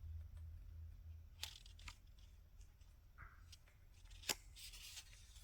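Near silence: a low room hum with a few faint clicks and a brief soft rustle of paper, as of a picture book's pages being handled.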